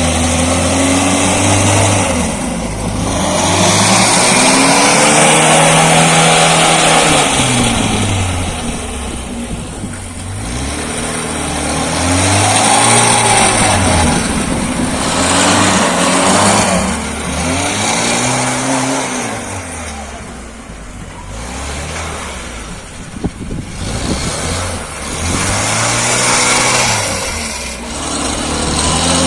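Homemade tractor's Moskvich car engine, a four-cylinder petrol unit, running under load, its engine speed rising and falling again and again as it is revved and eased off.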